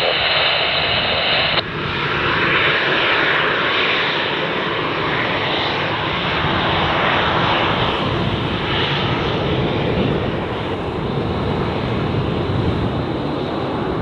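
Jet airliner engines running, a steady loud rushing noise that holds through without a break.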